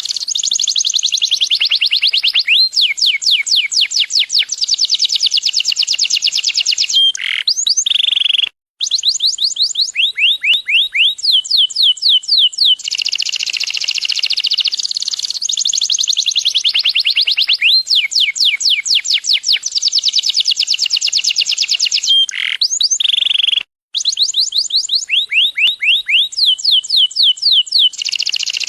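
Canary singing a long continuous song of rapid trills: runs of fast repeated down-sweeping notes alternating with buzzier rolling trills, all high-pitched. The song breaks off for an instant twice, about 9 and 24 seconds in.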